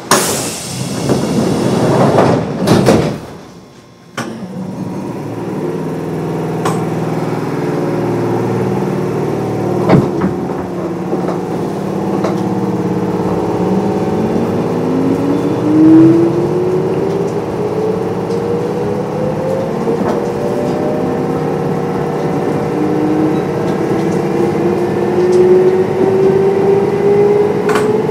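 Kintetsu 8800 series electric train with field-phase control, heard from inside the car: the doors close with a loud hiss and thud in the first few seconds. The train then pulls away, its motor and gear whine rising in pitch as it gathers speed, falling back midway and rising again. There is a single clunk about ten seconds in.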